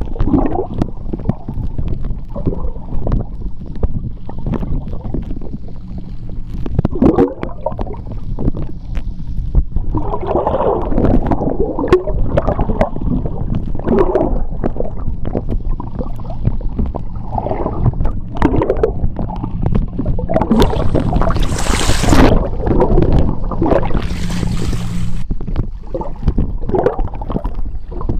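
Underwater sound of seawater moving in a tidal strait: low, uneven surges of water. A hissing rush of bubbles comes about 20 seconds in and again about 24 seconds in.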